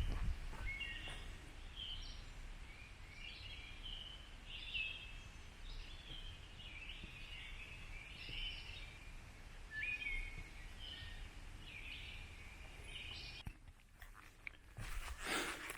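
Songbirds singing in woodland, many short chirps and warbling phrases overlapping over a faint steady background hiss. The birdsong stops near the end, where a brief rustle follows.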